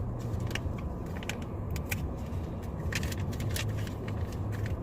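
Scattered light clicks and rattles of small items being handled, over the steady low hum of a car's running engine.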